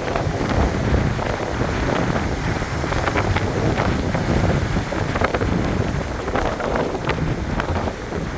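Sea waves washing onto the shore, with many small splashes, and wind buffeting the microphone with a low rumble.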